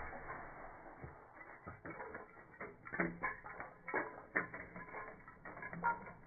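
Loose Lego pieces clicking and clattering: a string of light, irregular plastic knocks, a few of them louder.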